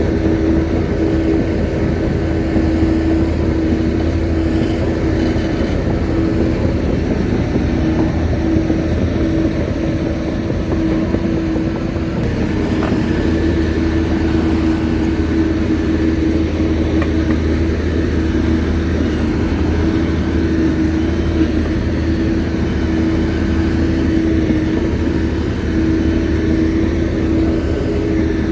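Shantui bulldozer's diesel engine running steadily under load, a constant pitched hum over a low engine note.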